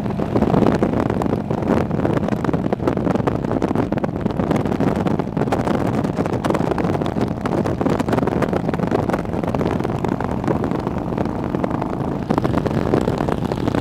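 Motorcycle engine running steadily at riding speed, with wind noise on the microphone.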